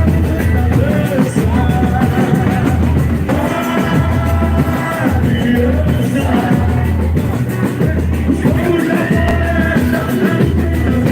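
Live boi-bumbá toada music: heavy steady drumming under a held, bending melody line.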